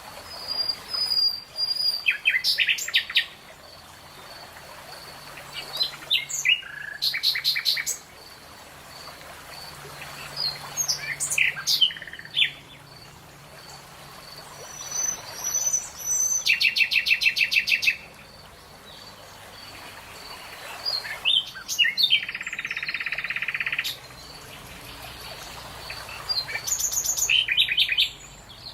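Songbirds singing: short phrases of rapid, evenly repeated high notes come every few seconds, some as fast trills. A faint, steadily pulsing high note runs underneath.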